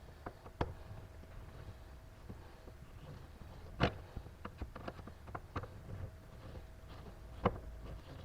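Irregular clicks, taps and knocks of hand tools and small metal parts being handled while a car's shifter boot and shifter bolts are removed. Two knocks, about four seconds in and near the end, are sharper than the rest.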